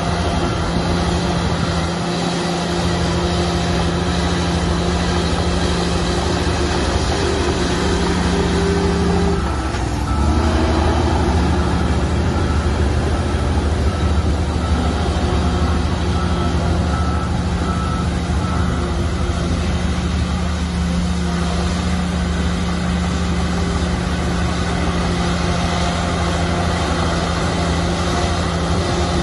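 Heavy diesel construction machinery engine running steadily, its pitch dipping and then rising again about ten seconds in. A reversing alarm beeps repeatedly for several seconds in the middle.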